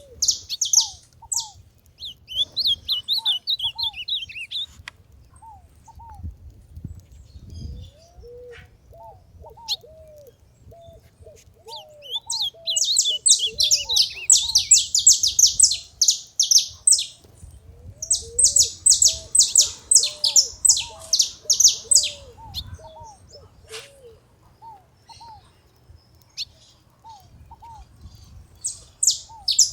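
Saffron finches chirping in bouts of rapid high notes separated by pauses: a longer bout from about twelve to seventeen seconds and another from eighteen to twenty-two. A lower call repeats about once a second underneath.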